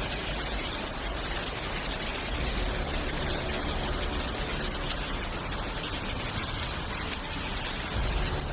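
Steady, even rush of storm water noise, a loud hiss spread across high and low pitches, beginning abruptly at a cut.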